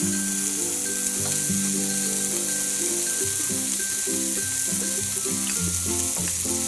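Sliced beef and onions sizzling on an electric grill pan, a steady hiss, with background music playing alongside.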